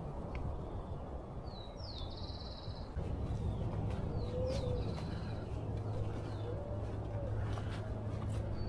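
Birds calling: quick high chirps and a short trill, joined from about four seconds in by a few low cooing notes, over a steady low rumble.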